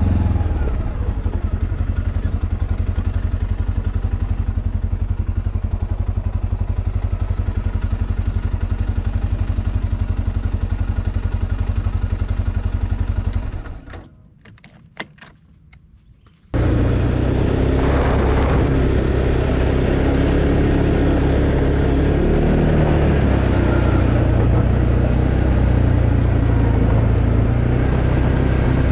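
Arctic Cat Alterra 700 ATV's single-cylinder engine running at a steady pulse, then the sound drops away for about three seconds, leaving only a few faint clicks, and comes back abruptly, louder and more uneven.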